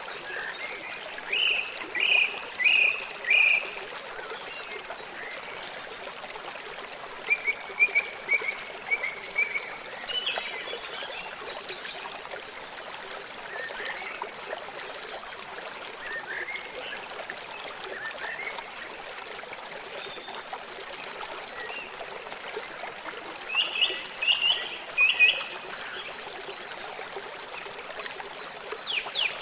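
A steadily running stream, with small birds calling over it in short series of quick chirps: a few bursts of four to six notes spread through, and a rapid trill starting right at the end.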